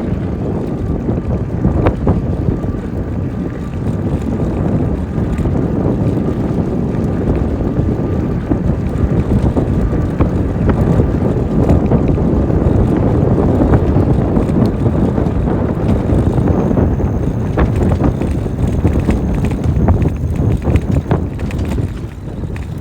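Wind buffeting the microphone of a moving e-bike, with a steady rumble and many small knocks and rattles as it rolls over a bumpy road.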